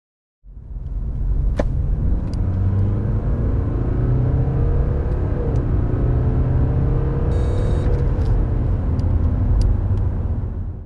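BMW 520d's 2.0-litre four-cylinder turbodiesel accelerating hard from 60 to 100 km/h. A heavy low rumble, with the engine note rising steadily over several seconds, and a few sharp clicks.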